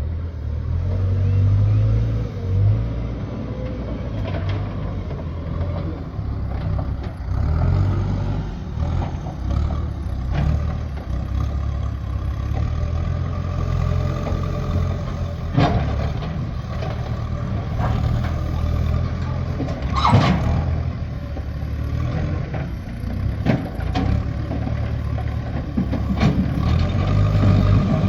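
A heavy vehicle's engine running steadily, with a few sharp knocks over it; the loudest knock comes about two-thirds of the way in.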